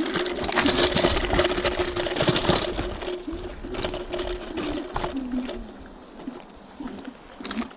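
TRBK-M2 electric hyperscooter's motor whining at a steady pitch while riding over rough dirt, with knocks and rattles from the bumps. The sound eases off after about five seconds.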